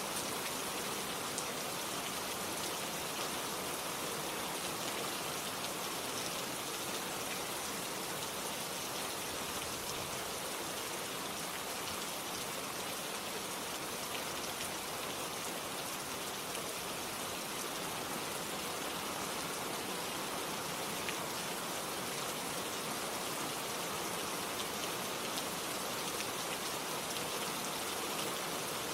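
Steady rain falling, an even hiss with individual drops ticking on a surface.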